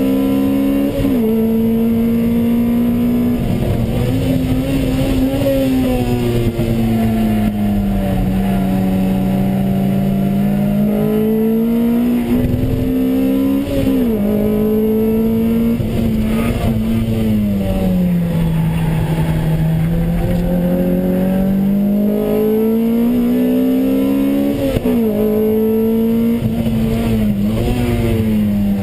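Lotus Exige's four-cylinder engine driven hard on track, heard from inside the cabin: the pitch climbs under acceleration and drops sharply at several quick upshifts, then falls slowly through longer stretches of braking and downshifting into corners.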